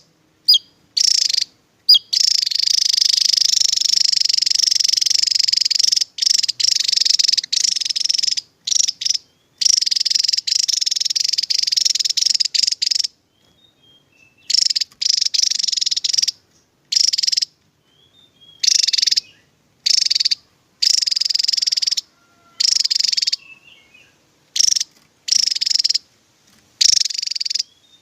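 Javan tesia singing its rapid, high, buzzy trilled song ('tembakan'): a long unbroken trill of about four seconds starting about two seconds in, then a series of shorter trills of a second or two each with brief pauses between.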